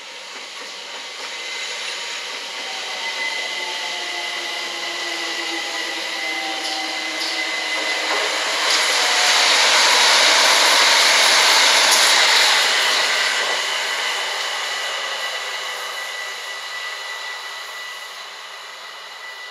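Southern Class 377 electric multiple unit passing at speed on the through line: the rumble and wheel noise build, peak in the middle and fade away. Earlier a fainter electric train on the far line gives a slightly falling motor whine.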